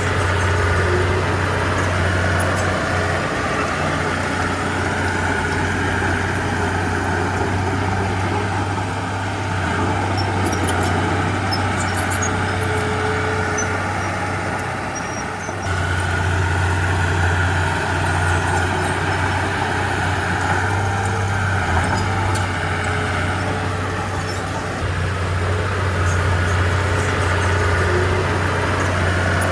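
Heavy diesel earthmoving machinery running, a steady low engine drone that eases off for a few seconds around the middle and again later, then comes back up, with faint metallic clinks over it.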